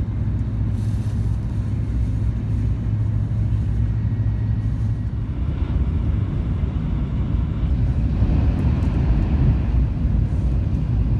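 Shinkansen bullet train running at speed, heard from inside the carriage: a steady low rumble of running noise that grows a little louder about eight seconds in.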